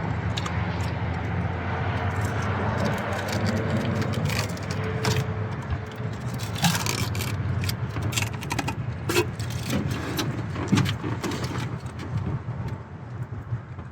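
Aluminium foil tape being peeled off the engine's intake ports, crinkling and scraping in irregular snatches over a steady low hum.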